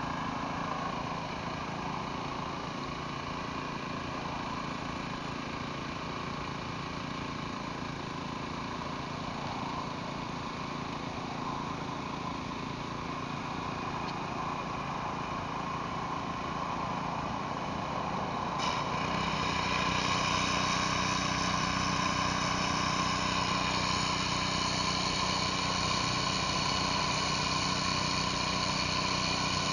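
Pressure washer running steadily while water sprays through a surface cleaner on concrete: a constant engine drone under a broad hiss. Around two-thirds of the way through, the sound turns abruptly louder and brighter and holds there.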